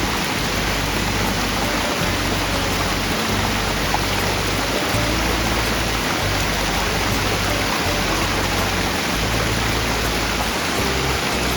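Steady rush of a fast mountain stream, with background music whose low bass notes change every second or two.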